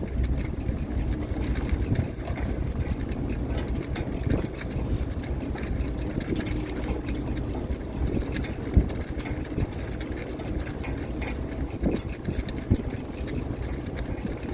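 Fishing boat's engine running steadily, with scattered knocks and clatter.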